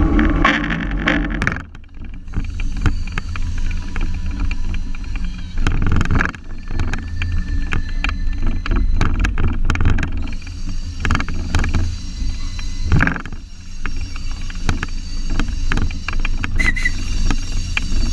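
A slow-moving train rumbling along the track, with frequent irregular clanks and rattles from the cars. A diesel engine's drone is loud at first and falls away about a second and a half in.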